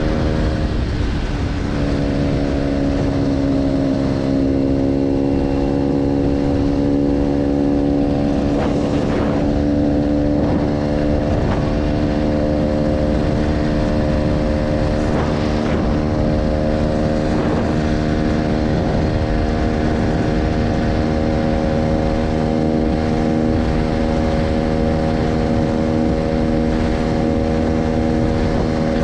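Motorcycle engine breathing through a new aftermarket G.P.R exhaust, running at steady revs. There is a brief dip in revs about a second in, after which the pitch holds nearly level.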